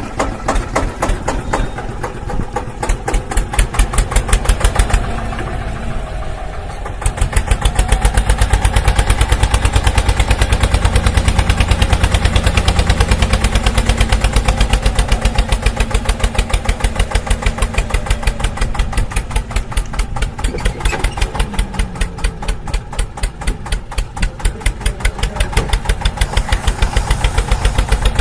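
Tractor engine running with a steady rhythmic chug. It drops quieter about five seconds in and comes back louder about two seconds later.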